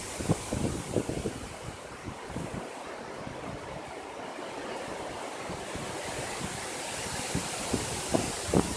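Strong wind blowing steadily, with gusts buffeting the microphone in short low rumbles in the first second or so and again near the end.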